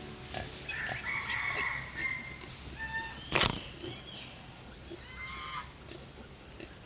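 Scattered short, high-pitched animal squeals and chirps, with one sharp click about three and a half seconds in.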